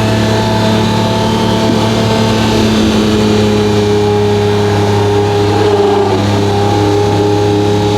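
Lamborghini Murciélago LP640's 6.5-litre V12, straight-piped through a Fi Exhaust, running at steady revs while cruising, its pitch holding nearly constant.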